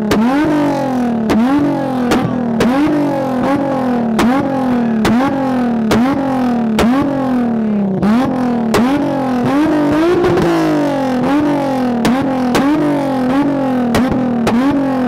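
Infiniti V6 sports car with a loud aftermarket exhaust being revved hard in quick repeated throttle blips, about one and a half a second: each blip shoots the revs up and lets them sag back. Sharp cracks from the exhaust come in among the blips.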